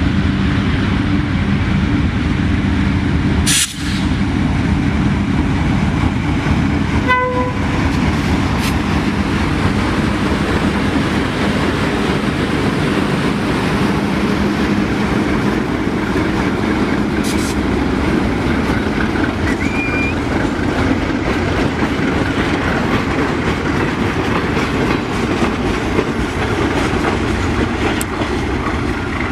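A train passing close by: a continuous loud rumble of wheels and cars on the rails, with a low engine drone in the first seconds and a brief short tone about seven seconds in.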